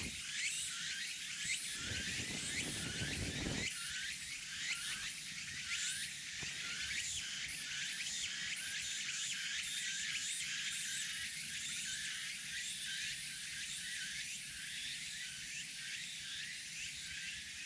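Dense chorus of insects chirping in the forest, many quick repeating high chirps. A low rumble runs for a couple of seconds near the start.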